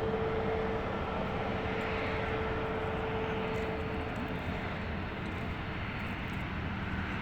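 Airbus A320neo airliner's jet engines running as the aircraft passes: a steady rushing roar with a single whining tone that fades out a little over halfway through, the roar slowly easing.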